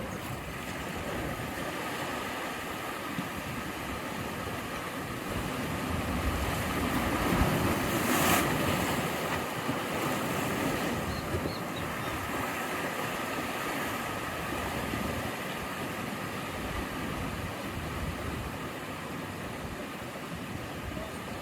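Ocean waves washing against the shore in a continuous rushing surf. One wave swells and breaks louder about eight seconds in, then the wash settles back to a steady level.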